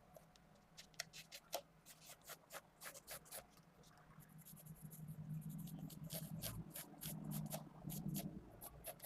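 Pentel GraphGear 500 mechanical pencil with 0.5 mm 2B lead sketching on paper: a series of quick, separate strokes that get closer together about halfway through, as the drawing becomes more continuous.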